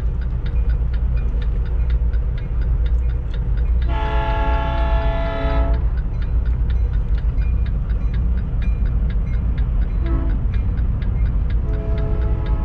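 Train horn sounding a chord of several tones at a grade crossing: one long blast about four seconds in, a short one near ten seconds, and another long blast near the end. Underneath run a steady low rumble and a fast, even ticking.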